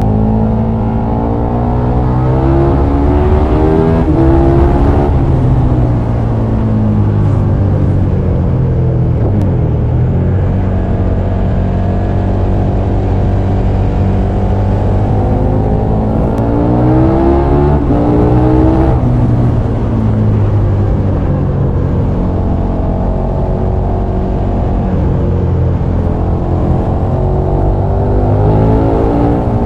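KTM 1290 Super Duke R's 1301 cc V-twin engine under way, its note climbing as the bike accelerates and dropping sharply at each gear change, then falling as it slows again, over a constant low rumble.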